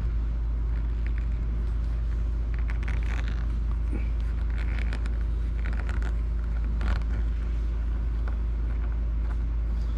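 A steady low hum, with faint small clicks and scrapes of a Y-tip screwdriver working the tiny Y screws on a Nintendo Switch's back shell.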